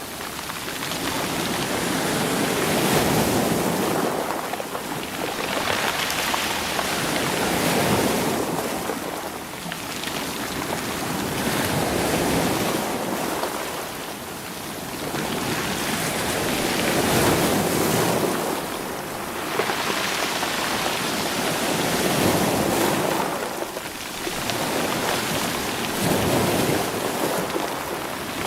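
Sea waves surging over a rocky shore and drawing back, stones rolling in the surf. The wash swells and fades in slow waves every four to five seconds.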